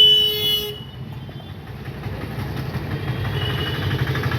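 A short, loud pitched blast at the start, fading within about a second, then a steady low engine rumble of road traffic.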